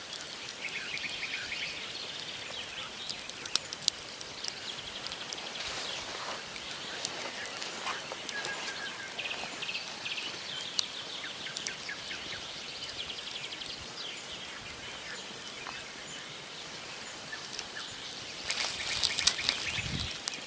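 Wood campfire crackling, with sharp irregular pops of burning logs, while small birds chirp in short repeated calls. Near the end the crackling and rustling grows louder, with a low thump.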